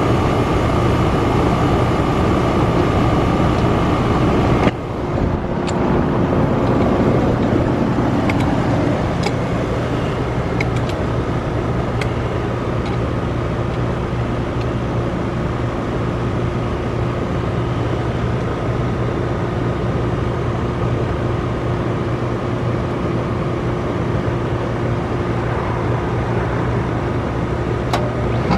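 Ruud Achiever RP14 heat pump outdoor unit running through a defrost cycle, with a steady hum. About five seconds in, the sound changes abruptly: the higher hiss and tone drop away, then it carries on steadily.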